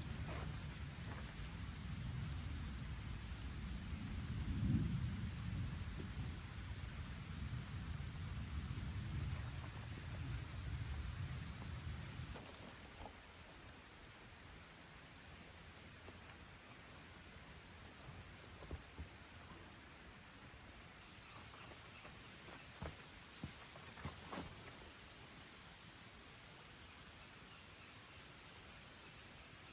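Insects, crickets by the sound of it, chirring in a steady high-pitched chorus. A low rumble underlies it and cuts off about twelve seconds in, and a few faint knocks come later.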